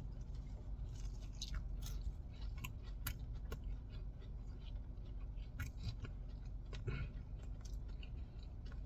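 A person chewing a mouthful of breaded fried chicken tender close to the microphone, with scattered small crunching clicks from the breading.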